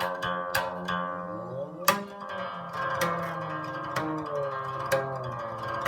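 Chinese zither played solo: single plucked notes ring on, several of them sliding or bending in pitch after the pluck.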